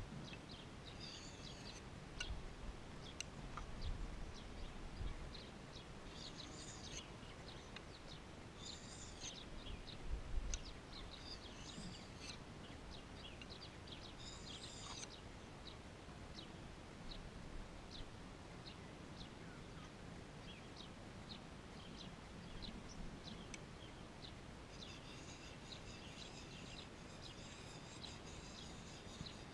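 Faint outdoor birdsong: scattered short chirps and calls, growing into a denser chorus of calls near the end. A couple of brief low rumbles come about 4 and 10 seconds in.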